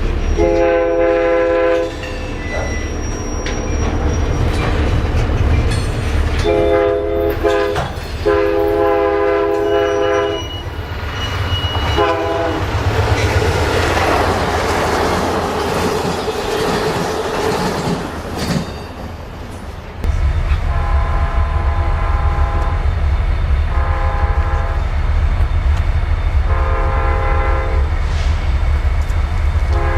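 Diesel locomotive's multi-chime air horn sounding a series of long blasts over the rumble and clatter of a passing train. Near the middle the horn drops out under a rush of wheel and rail noise, then comes back in repeated blasts over a heavy low engine rumble.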